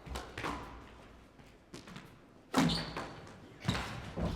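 Squash rally: the ball struck by rackets and hitting the court walls, about six sharp, irregular impacts in four seconds, each with a short echo.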